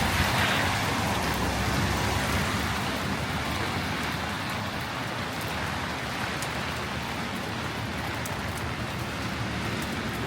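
Heavy rain falling and hitting hard surfaces, a steady hiss that is loudest in the first couple of seconds and then settles, with occasional sharp drop ticks.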